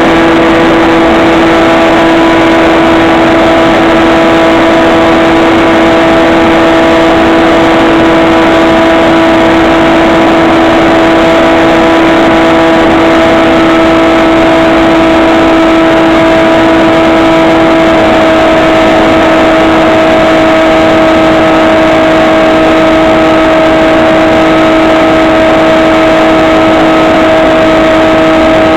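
Electric motor and propeller of a HobbyKing SkyEye FPV plane running steadily in flight, a loud constant whine over a dense hiss. The pitch shifts slightly about two-thirds of the way through.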